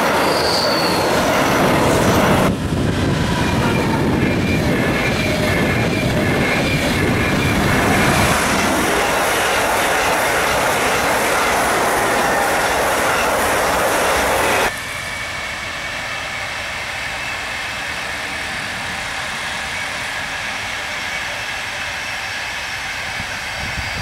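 Electric trains passing at speed along the track, heard in a run of clips with abrupt cuts. First a freight train of trailer-carrying pocket wagons runs close by, then a regional electric multiple unit, and from about two-thirds of the way through a quieter, steadier passing train.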